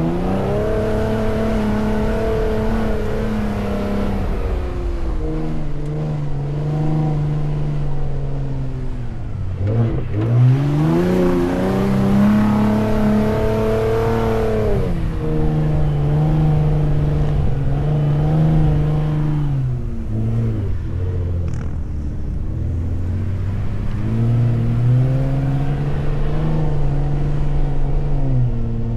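Ford F-150 Raptor's twin-turbo V6 engine under changing load while driving over sand dunes, its pitch climbing and falling repeatedly. There are steps down in pitch like gear changes, and it drops low twice before pulling up again.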